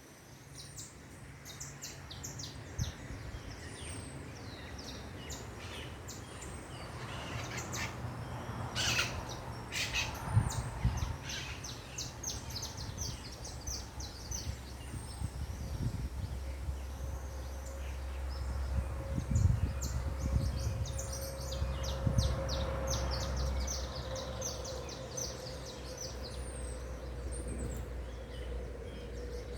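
Many small birds chirping and calling at once, quick short notes and falling whistles overlapping throughout. Underneath runs a low steady rumble, with a few dull thumps.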